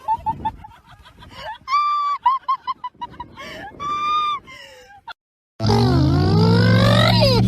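An animal calling: quick repeated chirps, then two long honking calls about two seconds apart with more chirps between. After a short silent break, a different sound starts, with rising, wavering tones over a steady low hum.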